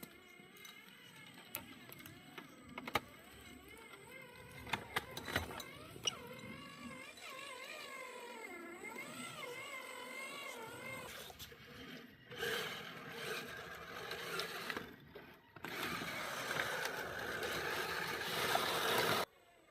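Small electric RC crawler's motor and gear drivetrain whining, its pitch rising and falling with the throttle, with scattered clicks and knocks. In the second half a louder, rougher grinding and rustling noise takes over and cuts off suddenly near the end.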